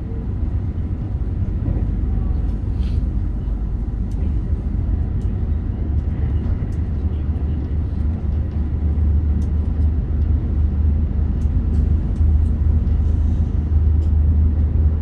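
Meitetsu Panorama Super electric train running at speed, a steady low rumble of wheels and running gear heard inside the car, growing slightly louder, with a few faint ticks.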